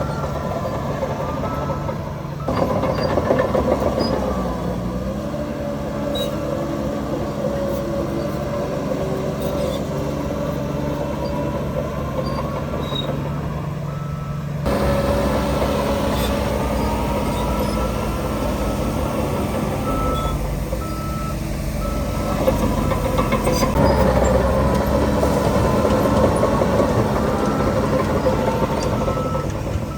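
Heavy diesel machinery engine running, with a reversing alarm beeping at intervals. The sound changes abruptly about two and a half seconds in and again about halfway through.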